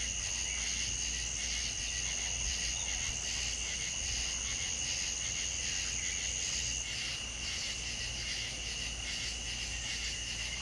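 A chorus of insects, crickets or similar, chirring steadily in two high, rapidly pulsing pitches. The higher one stops about seven seconds in, over a low steady hum.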